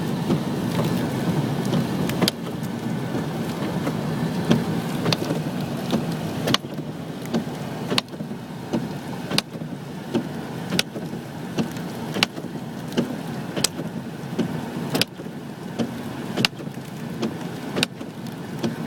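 Car on the move: a steady low rumble of road and engine noise. From about a third of the way in, a sharp tick comes about every second and a half.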